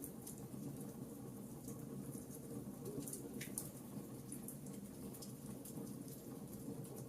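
Wood fire crackling: irregular sharp snaps over a low steady rumble, with one stronger snap about three and a half seconds in.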